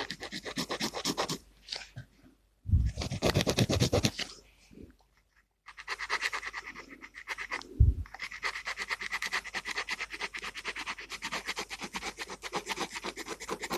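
Gel pen scratching on paper in quick back-and-forth colouring strokes, several a second. The strokes break off twice, with a louder run about three seconds in, then run on steadily from about six seconds in.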